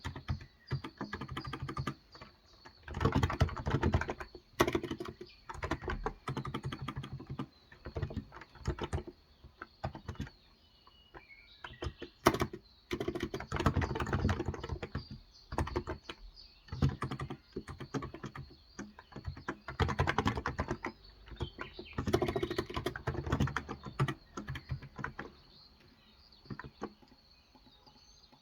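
Typing in bursts with short pauses on a Cox Endeavour tenkeyless keyboard with 35 g electrostatic capacitive switches; the typing thins out near the end. Faint bird chirps in the background.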